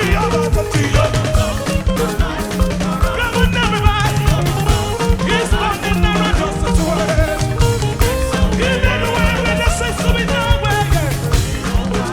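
Upbeat live gospel band music with drums and a repeating bass line at a steady beat, and a voice singing over it.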